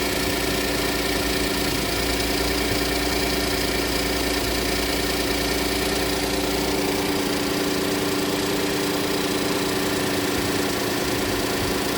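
Hyundai Grandeur HG 3.0's V6 engine idling steadily, an even hum with no revving. The deepest rumble fades out about seven seconds in.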